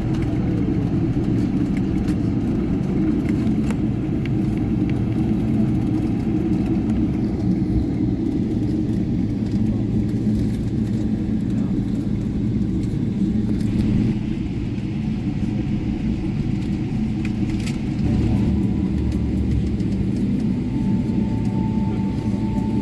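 Steady low rumble and hum of a Boeing 777-300 airliner heard from inside the economy cabin around landing, with a faint thin tone near the end.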